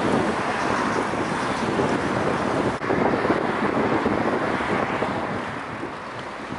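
Wind rushing over the microphone of a camera carried on a moving fixed-gear bike ride, a steady loud rush with a brief dip about three seconds in.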